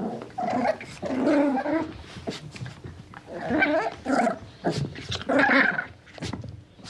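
A dog vocalizing in several drawn-out calls of about a second each, with short pauses between them.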